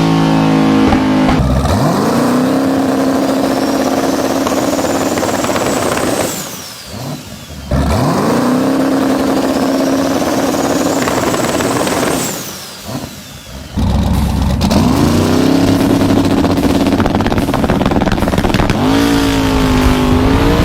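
Twin-turbo Pontiac Firebird Trans Am engine making two hard full-throttle pulls. Each pull has a turbo whistle climbing to a high pitch, then the throttle closes and the whistle falls away as the engine drops quiet. From about two-thirds of the way in, the engine runs loud again under power.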